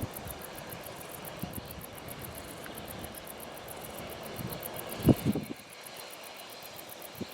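ChME3 shunting diesel locomotive running, a steady engine rumble. About five seconds in there is a short cluster of loud low thumps, after which the rumble is a little quieter.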